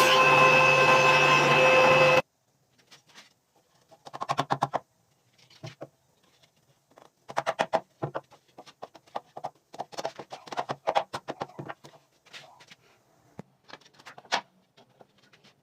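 A power tool cutting wood runs steadily, then stops abruptly about two seconds in. Irregular clusters of sharp clicks and light knocks follow.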